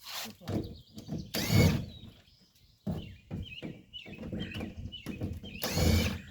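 Hand work on a plastic kayak's fittings: two loud scraping, rustling bursts, about a second and a half in and near the end, with lighter knocks and handling noises between. Small birds chirp in the middle.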